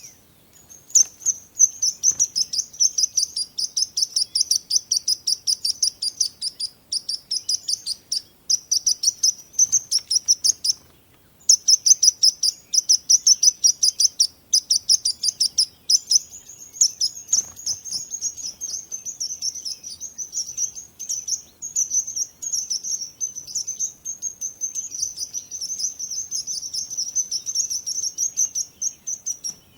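Small songbirds chirping in fast, high-pitched trains of many notes a second, nearly continuous, with a brief pause about eleven seconds in.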